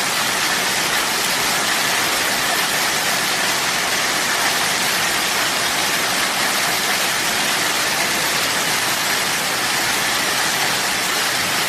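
Heavy rain pouring down as a steady, even hiss with no separate strikes.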